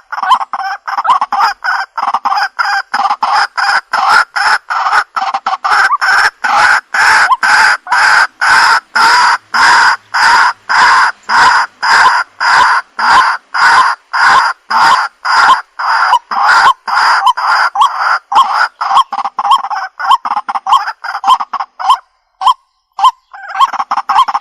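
Waterhen (jal murgi) calling in a loud, fast, unbroken series of repeated calls, about two a second, that breaks off briefly near the end and then starts again.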